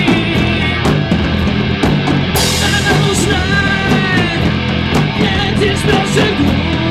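Loud rock music with distorted guitars and a drum kit, a cymbal crash about two and a half seconds in.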